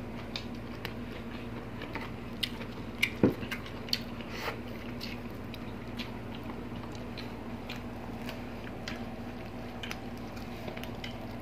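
Two people eating with their hands close to the microphone: chewing with wet mouth clicks and smacks, and a run of sharper clicks and crunches between about two and four and a half seconds in, loudest a little past three seconds. A steady low hum sits underneath.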